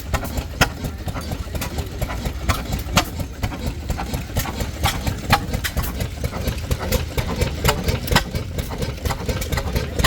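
Antique stationary engines running: a steady low rumble with sharp, irregular clicks and knocks several times a second.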